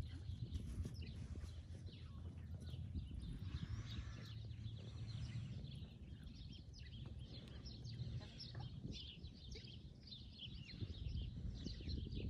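Small birds chirping repeatedly, short high calls scattered throughout, over a low steady background noise.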